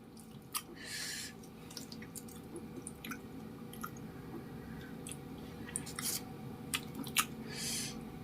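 Close-miked chewing of chewy tapioca-starch cilok balls: wet, squishy mouth sounds with scattered sharp clicks, and two brief hisses, one about a second in and one near the end.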